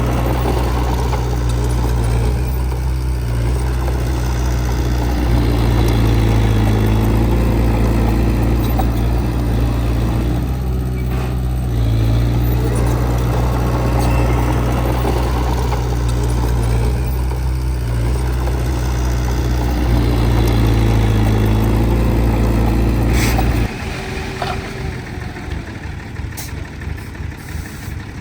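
Heavy diesel earthmoving machinery running, its engine drone swelling and easing every few seconds. Near the end the drone stops suddenly and a quieter, uneven low engine rumble takes over.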